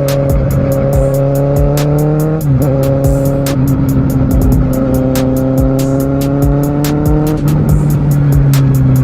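Kawasaki Z750R inline-four engine accelerating, its pitch climbing slowly and dropping sharply at two upshifts, about two and a half seconds in and again about seven seconds in. Music with a steady beat plays over it.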